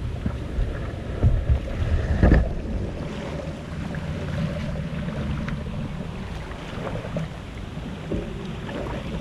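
Rushing river water around a kayak, with wind buffeting the microphone and a few loud knocks about one and two seconds in.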